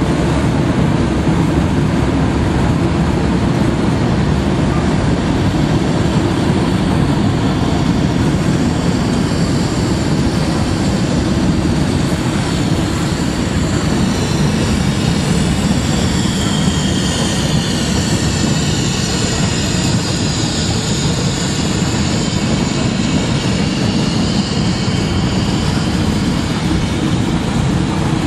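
Freight train cars rolling past, a steady rumble of steel wheels on rail as covered hoppers and tank cars go by, with faint shifting high squeals through the middle stretch.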